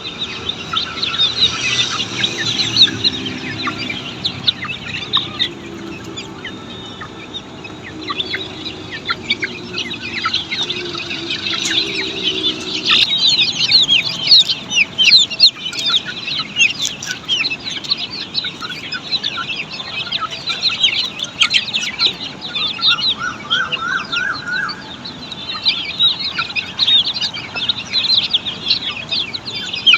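A brood of Australorp chicks peeping continuously, many short high cheeps overlapping. Lower, longer chicken calls come in now and then during the first half.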